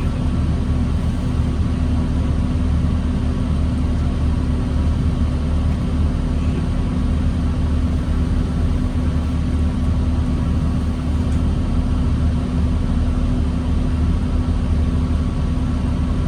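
2009 New Flyer D40LFR diesel transit bus heard from inside the cabin, its engine running at a steady, unchanging speed with a constant low rumble and hum.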